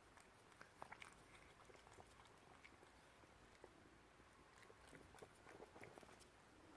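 Cats licking a churu paste treat: faint, scattered wet tongue clicks and smacks, with a small cluster about a second in and another near the end.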